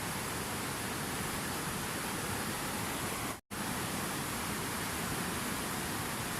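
Steady rushing water, an even hiss spread from low to high. It cuts out completely for a split second about halfway through, then carries on unchanged.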